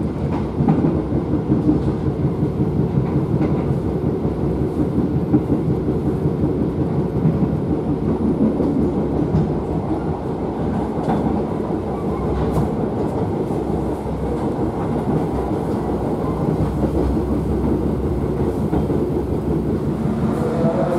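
Steady running noise of the KA Bima executive passenger train heard inside the coach: wheels running on the rails at speed.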